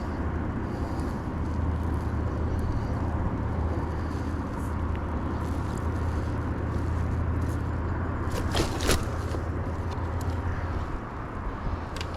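Wind rumbling steadily on the microphone over outdoor ambience, with a couple of short clicks about eight and a half seconds in.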